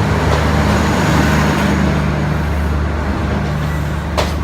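Passenger train running close by with a steady low mechanical hum, joined by a couple of sharp clicks near the end.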